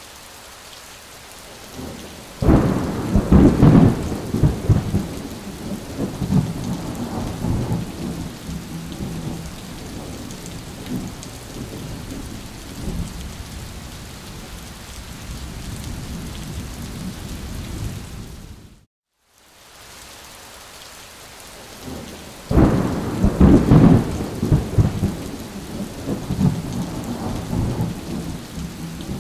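Thunderstorm: steady rain hiss with two loud claps of thunder, about 2 s and 22 s in, each rolling on into a rumble that fades over several seconds. The sound cuts out briefly about two-thirds of the way through, then the rain starts again.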